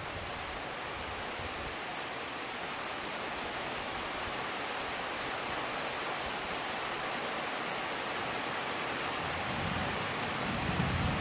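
Steady, even hiss of heavy rain falling, with a low rumble building in near the end.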